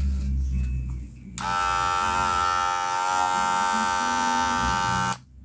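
Wahl Senior electric hair clipper switched on about a second in, running with a steady, even buzz for a few seconds, then switched off near the end.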